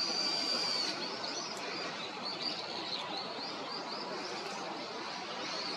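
Small birds chirping, short high notes repeated several times a second, with one longer, steady high whistle in the first second, over a constant background noise.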